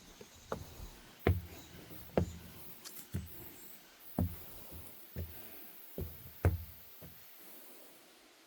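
Footsteps on wooden deck boards, one knocking step about every second, stopping about seven seconds in.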